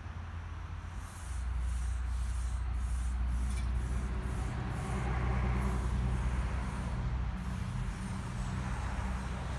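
A DB Class 425 electric multiple unit passing the level crossing: a steady low rumble and hum that rises about a second in and stays up as the train goes by.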